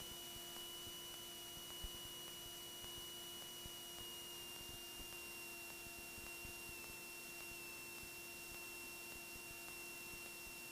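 Faint steady electrical hum with a thin high whine that drifts slightly lower, from a cockpit audio feed taken off the intercom, so the engine itself is not heard.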